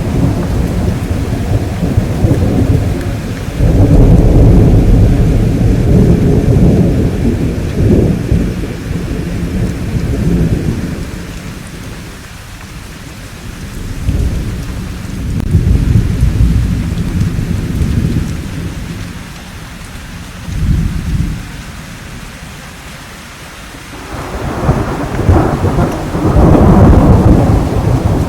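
Steady rain with rolling thunder: several long, low rumbles come and go, with quieter stretches of just rain between them, and a louder, sharper peal near the end.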